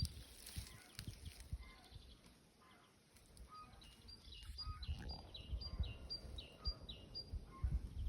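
A songbird in a spring forest singing a repeated two-part phrase, a high note dropping to a lower one, about twice a second through the second half, with other scattered chirps. Low thumps and rumble sit underneath.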